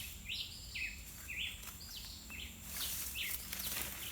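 A bird calling repeatedly in short, sharp notes, about two a second, over a thin steady high insect whine. A stretch of rustling hiss comes in during the second half.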